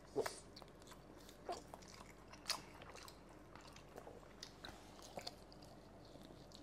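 Faint chewing and mouth sounds of people eating, with a handful of short clicks spread over the few seconds.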